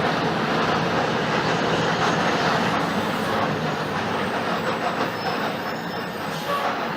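Mercedes-Benz OF-1721 BlueTec 5 city bus running on the road, its diesel engine and ride noise forming a steady, dense rumble that eases off slightly toward the end.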